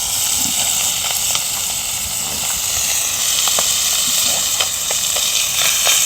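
Sea bass and aged kimchi sizzling on an iron griddle over a wood fire: a steady hiss with scattered small pops and crackles.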